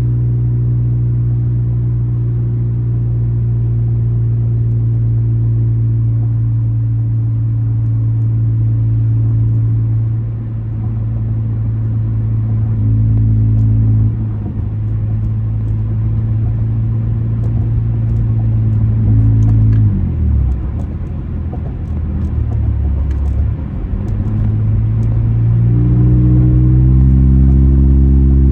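Straight-piped 2004 Honda Accord 2.4-litre four-cylinder with a cold air intake, its exhaust droning steadily while cruising. About two-thirds of the way through the pitch falls away as the car slows, then it rises and grows louder again near the end as the engine pulls back up.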